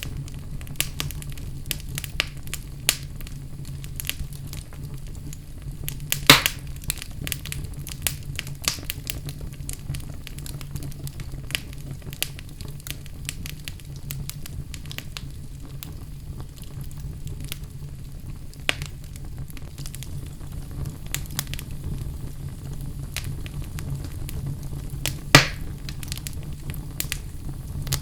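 Wood fire crackling in a fireplace: a constant scatter of small crackles over a steady low rumble, with two louder pops, about six seconds in and near the end.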